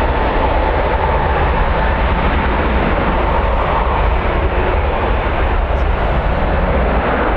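Strong wind blowing on the microphone, a steady low rumble, mixed with the steady noise of a jet airliner's engines; a faint whine fades out about a second in.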